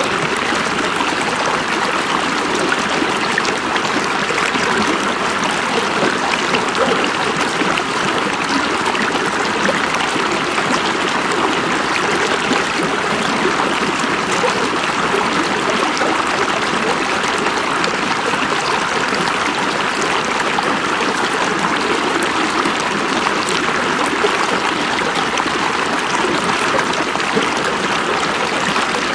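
A river flowing and babbling over rocks: a steady, loud rush of running water with fine splashing and gurgling throughout.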